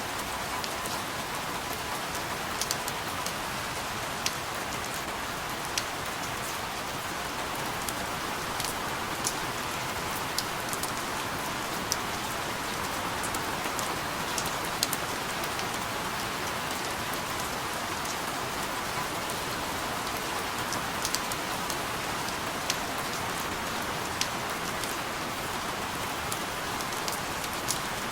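Steady rain falling, an even hiss with scattered sharper drop ticks every second or two.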